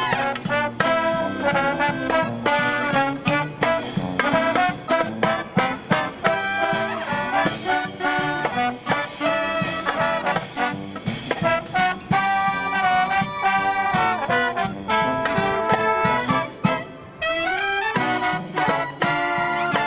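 A marching brass band of trumpets and trombones playing a lively tune, with steady percussion strikes. There is a brief drop in level about 17 seconds in, followed by a quick rising run.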